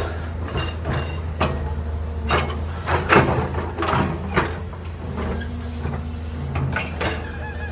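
A heavy machine's engine running steadily, with irregular metallic clanks and knocks over it, the loudest about three seconds in.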